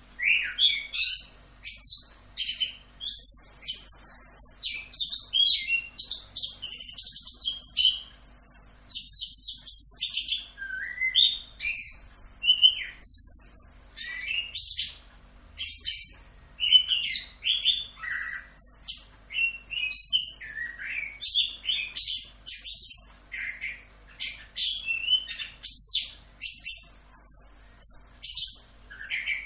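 Chestnut-capped thrush (anis kembang) singing a continuous, rapidly varied song of short high whistled phrases that starts suddenly and runs on without pause.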